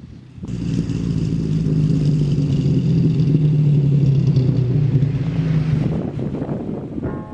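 Ford Ranger pickup under way, its engine and exhaust making a steady, even drone that comes in about half a second in and eases off near the end.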